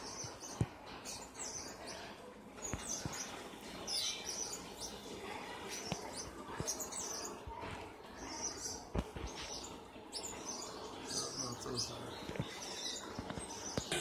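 Small birds chirping: many short, high chirps scattered throughout, some overlapping, with a few brief soft knocks in between.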